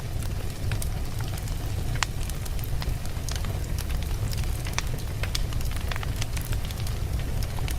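Wood logs burning in a fireplace: a steady low rumble of flame with frequent sharp crackles and pops, one louder pop about two seconds in.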